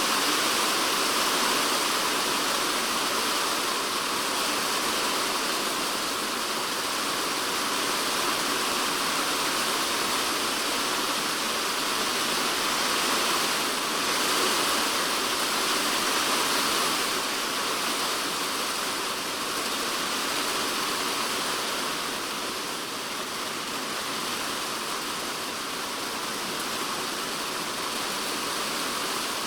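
Heavy typhoon rain drumming steadily on a polycarbonate shed roof, heard from inside the shed as a dense, even hiss. It eases slightly in the second half.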